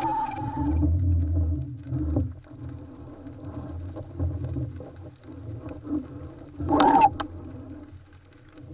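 Underwater sound picked up by a camera in its housing: a low rumble of water moving over the housing, with a steady boat-engine whine that cuts off about a second in, and one short loud gurgling burst about seven seconds in.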